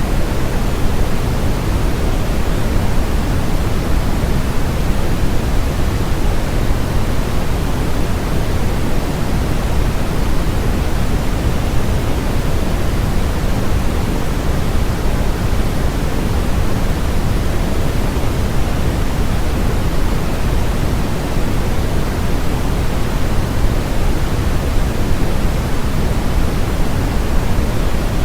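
Generated noise sold as white noise: a steady, unchanging hiss with no events, heavier in the bass than in the treble, closer to pink noise than flat white noise.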